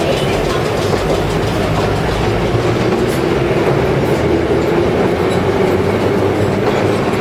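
Vintage R1/R9 subway train running out of the station, a steady loud rumble of the cars on the rails with a couple of faint clicks about three and four seconds in.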